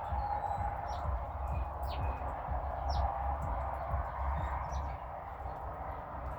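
Small birds chirping: a scattering of short, high, downward-sliding chirps and brief whistled notes, over a steady background hiss and low rumble.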